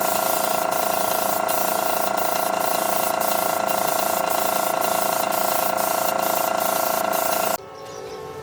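A power or air tool running steadily with a loud hiss and a whine, cutting off suddenly about seven and a half seconds in.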